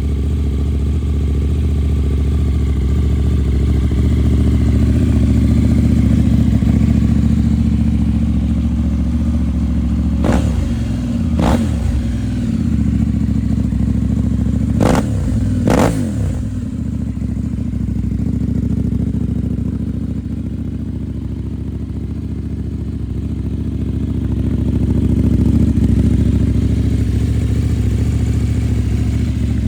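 KTM 790 Duke's parallel-twin engine idling steadily through an Akrapovic Evolution Line full exhaust, with four quick throttle blips in two pairs around the middle.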